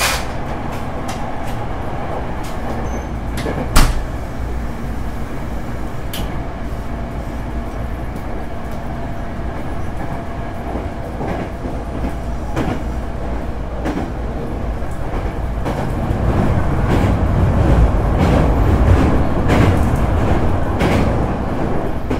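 Hankyu 8300 series electric train (later Toyo GTO-inverter car) running at speed, heard from inside the car: steady wheel-on-rail rumble with the air conditioning running. A sharp click about four seconds in, and near the end the running noise grows louder with a quick run of clicks.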